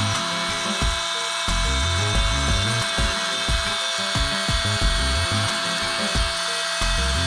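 A hydraulic drive motor screwing a helical steel pier down into the soil, running with a steady whine.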